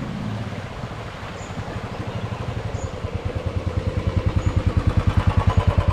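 Motorcycle engine with a slow, even thumping beat, growing steadily louder over the last few seconds as it approaches.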